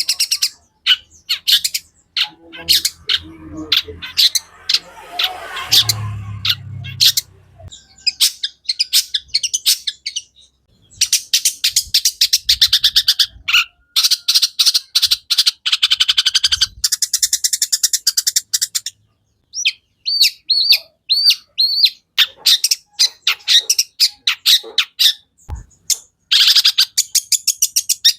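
Long-tailed shrike (cendet) singing a varied song of rapid, chattering notes and trills, with short pauses and runs of quick slurred notes that make up its mimicked phrases. A low rumble sits under the song a few seconds in.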